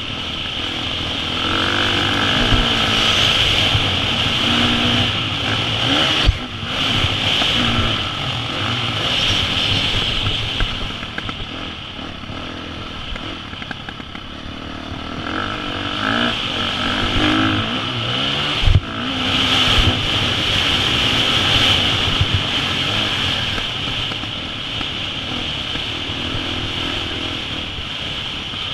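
2014 KTM 350 SX-F's single-cylinder four-stroke engine revving up and easing off repeatedly as the bike is ridden around a motocross track. Twice the engine note drops away for a moment and is followed by a sharp thud.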